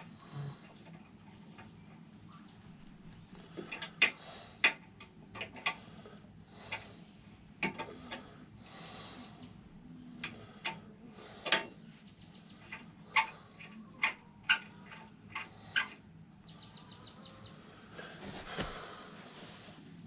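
Sharp, irregular metallic clicks and clinks of hand tools on motorcycle hardware, about twenty of them spread over twelve seconds, with brief rustling between them.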